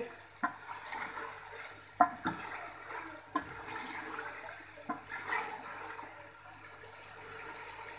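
Chicken karahi sizzling in a metal pot as it is stirred, the hiss swelling and fading as the pieces are turned, with the spoon knocking sharply against the pot about five times.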